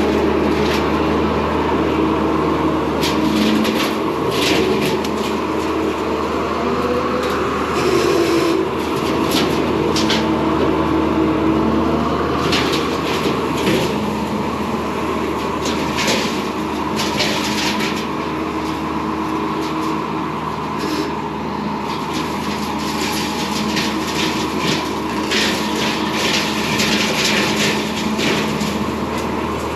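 Bobcat T595 skid steer's diesel engine running steadily while the vertically mounted hydraulic brush hog cuts brush. Its blades strike and shred branches in repeated sharp cracks and snaps, coming in clusters.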